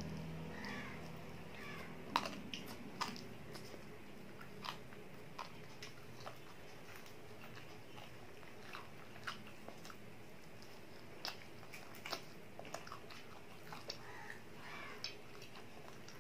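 A child biting and chewing fried chicken close to the microphone: scattered sharp mouth clicks and crunches, the loudest about two seconds in.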